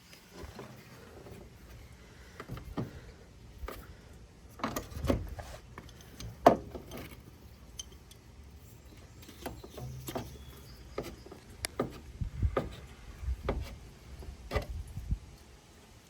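Irregular clicks, taps and knocks of hand tools and car parts being handled while the lines are pulled off a power steering reservoir, with one sharper knock about six and a half seconds in.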